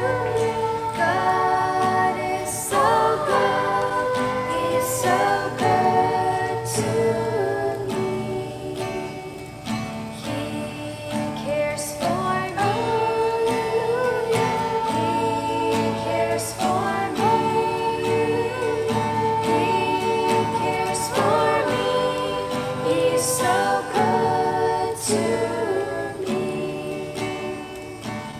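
A group of voices singing a Christian song together with guitar accompaniment, held notes moving in steps from one to the next.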